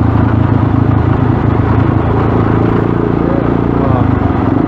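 Dirt bike engine running steadily under way, its note shifting a little near the end.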